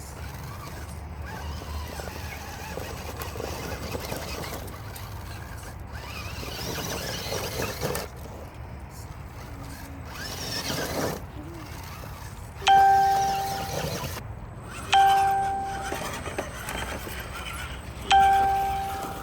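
A bell-like ding rings out three times, two to three seconds apart. Each ding starts suddenly at the same pitch and fades away over about a second.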